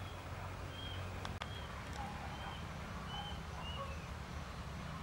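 A bird calling with short, high chirps repeated every half second to a second, over a steady low background rumble. There is one sharp click about a second and a half in.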